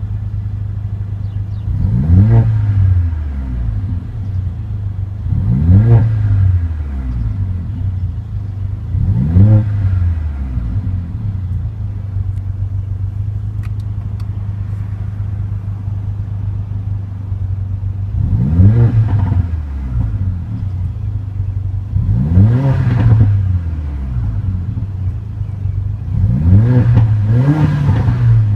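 Mercedes-AMG GLA 45's turbocharged 2.0-litre inline-four idling, blipped six times in quick free revs that rise and fall back to idle: three revs, an idle gap of about eight seconds, then three more, the last a double blip. The first revs are in the comfort exhaust mode and the later ones in sport mode.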